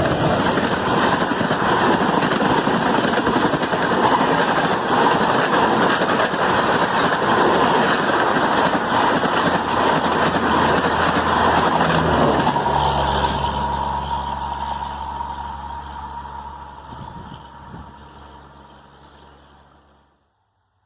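Diesel-hauled Indian Railways passenger train passing: a loud, steady clatter and rush of coaches on the track, which gives way about twelve seconds in to a steady low diesel engine hum that fades away.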